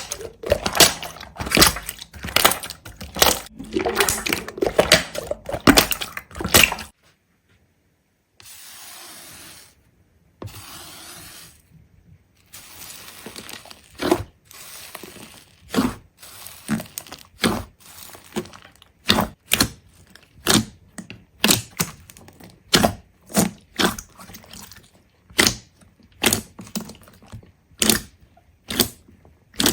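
A quick run of sharp cracks and crunches, then, after a short break with only faint hiss, single sharp cracks at an even pace of roughly three every two seconds.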